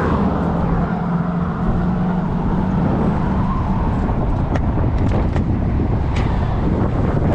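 Wind rushing over a helmet-mounted microphone and road noise as an Old Soren electric cafe racer motorcycle climbs a steep hill, with a steady low hum through the first few seconds and a few sharp clicks later on.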